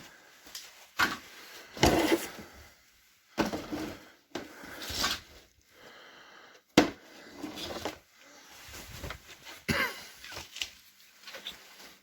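Irregular scraping and rustling, broken by a few sharp knocks, one loudest about seven seconds in.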